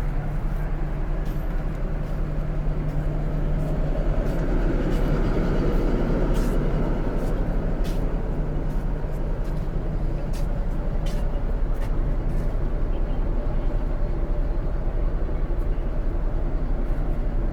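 Inside a Scania K410 coach while it is on the move: a steady drone of engine and road noise, swelling a little around the middle, with frequent small rattles and clicks from the cabin.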